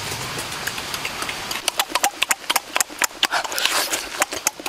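A person eating braised pig's leg with the mouth close to the microphone: loud smacking and chewing, a rapid irregular run of clicks starting about a second and a half in, over a steady hiss.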